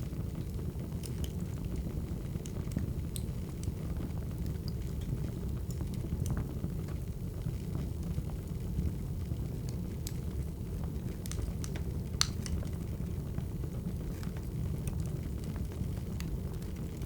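Wood fire crackling: a steady low rumble of burning logs with scattered sharp pops, one louder pop about twelve seconds in.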